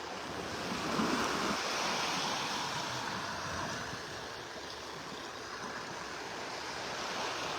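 Small Gulf of Mexico waves washing onto the beach: a steady surf hiss that swells about a second in and then slowly eases.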